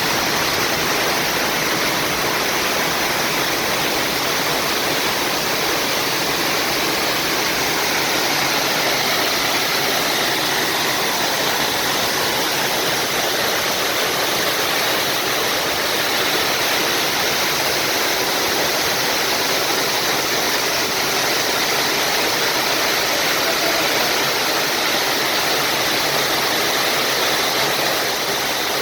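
Bigăr waterfall: a steady, unbroken rush of falling water.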